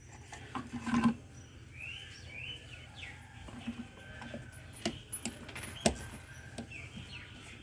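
Small birds chirping in short repeated calls, with a few sharp clicks or knocks about a second in and again around five and six seconds in.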